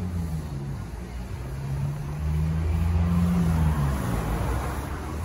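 Car engine running at low revs: a low hum that shifts in pitch and grows louder about two seconds in.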